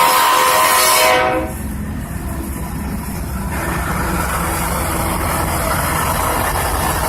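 A train horn sounding a loud multi-note chord, cut off abruptly a little over a second in, then the steady deep rumble of a train running along the tracks.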